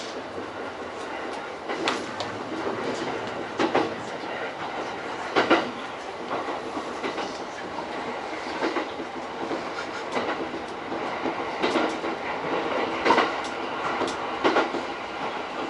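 JR East E231 series commuter train running at speed, heard inside the leading car: a steady rolling noise, with wheels knocking over rail joints at irregular intervals every second or few.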